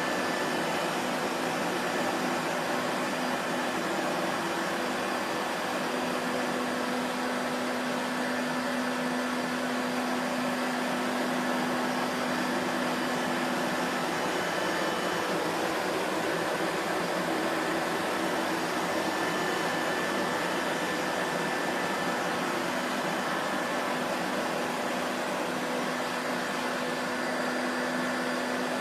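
Vacuum cleaner running steadily: a constant motor whine with a rushing air noise and a faint steady hum, no change in speed.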